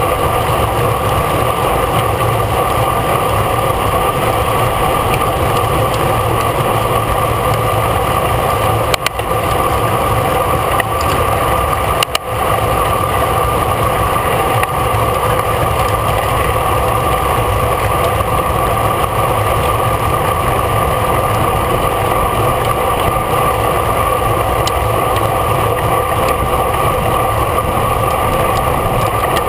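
Steady rushing noise of a racing bicycle at speed: wind on the onboard camera's microphone with a constant road and tyre hum, dipping briefly twice, about nine and twelve seconds in.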